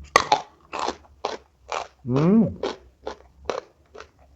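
Close-up crunchy chewing of raw young jengkol (dog fruit): a sharp bite just after the start, then steady crunches about twice a second. About two seconds in a short hummed "mm" rises and falls in pitch.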